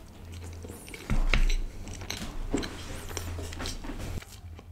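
A person biting into and chewing a slice of thick-crust butter chicken pizza close to the microphone, with many small chewing clicks and one low thump about a second in.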